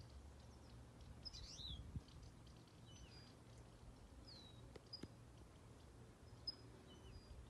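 Faint bird chirps, a handful of short high whistles scattered through, over near silence with a low steady hum.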